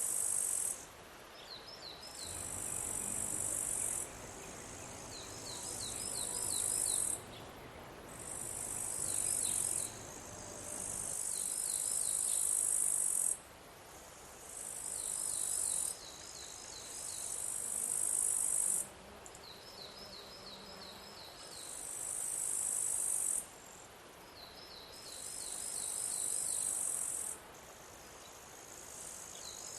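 Insects stridulating: a high, shrill buzzing trill repeats in phrases of two or three seconds, each swelling and then cutting off abruptly. Between them come short runs of quick chirps, about half a dozen at a time.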